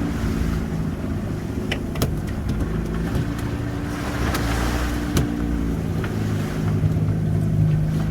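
Boat engine running steadily, with a few sharp knocks about two and five seconds in.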